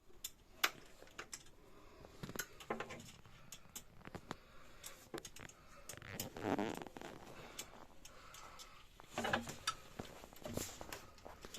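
Scattered sharp clicks and metallic knocks of tools and small parts being handled during work on an oil boiler, with a couple of brief scraping or rustling noises about six and nine seconds in.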